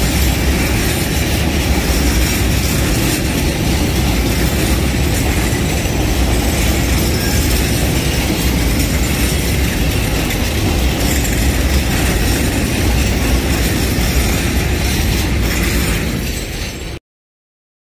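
A train running on the rails: a loud, steady rumble of wheels and wagons that cuts off suddenly about 17 seconds in.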